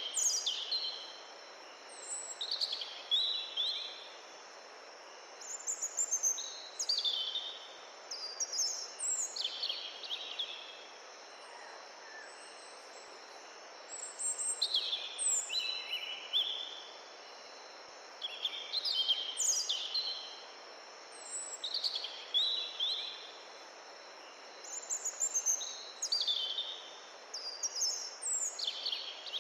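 A songbird singing short bursts of quick, falling high notes, repeated about every two to three seconds, over a steady rushing background noise.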